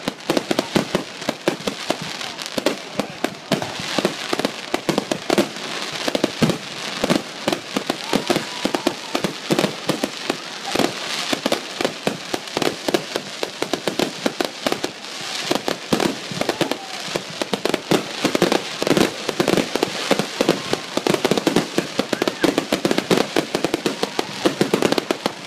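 Fireworks going off in a dense, rapid barrage of bangs and crackles, many reports a second, as bursts of crackling stars go off overhead.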